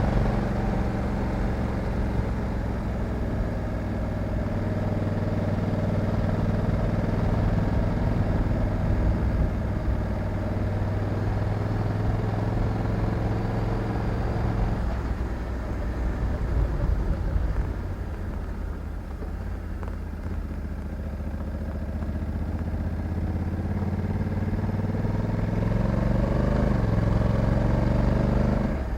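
Honda Africa Twin 1100 DCT's parallel-twin engine under way: it runs steady, eases off and slows from about halfway, then climbs in pitch as it accelerates over the last few seconds.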